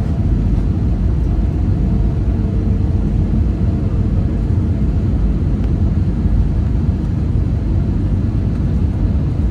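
Steady low rumble of an Airbus A320neo's cabin noise, engines and airflow heard from inside the cabin. A faint steady hum in it fades out about four seconds in.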